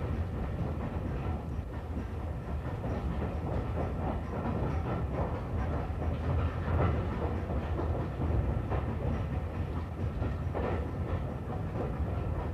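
Railway carriage running along the track: a steady low rumble with the clatter of wheels over the rails.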